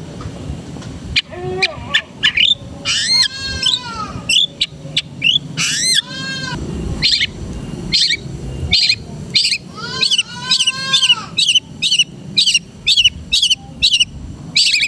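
Long-tailed shrike (cendet) singing a varied song: arched, rasping pitched notes, then from about two-thirds in a quick run of short, sharp high chips, about three a second.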